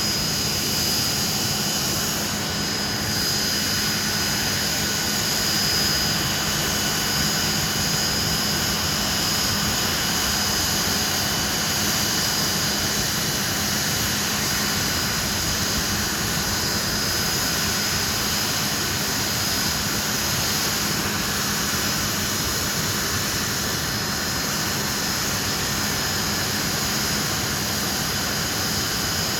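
Hawker Siddeley Nimrod's Rolls-Royce Spey turbofan engines running steadily: a constant jet rush with a high whine over it.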